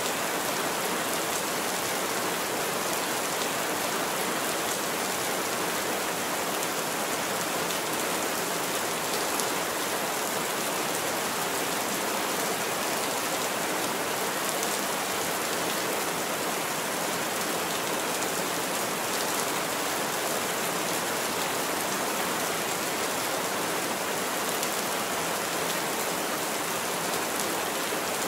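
Heavy rain falling steadily: an even, dense hiss with no let-up.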